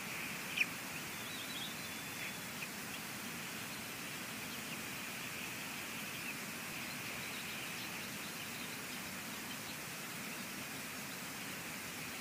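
Steady hiss of rain on an outdoor nest camera's microphone, with one short, sharp bird call about half a second in and a few faint chirps over the next two seconds.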